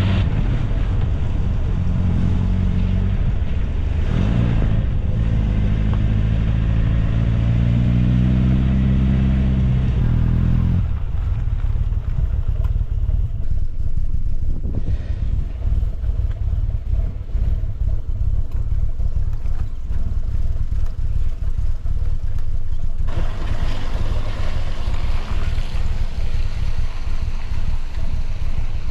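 1964 MG Midget's four-cylinder BMC A-series engine under way, its note rising as the car accelerates. After about ten seconds the engine note falls to a lower, rougher running sound with road and wind rush, and the wind grows louder near the end.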